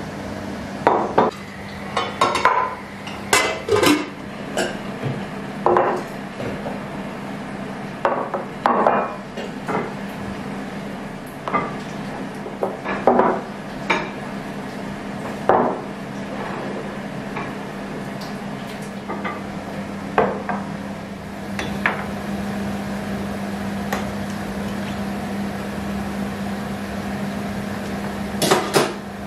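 Dishes and cutlery clinking and knocking in irregular bursts of clatter, busiest in the first half and once more near the end, over a steady low appliance hum.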